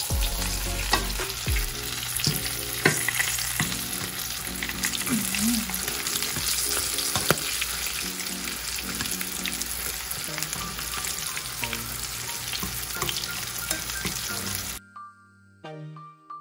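Breaded small fish deep-frying in hot oil in a pan, browned and nearly done: a steady dense sizzle and crackle, with a few sharp clicks of metal tongs. The sizzle cuts off abruptly near the end.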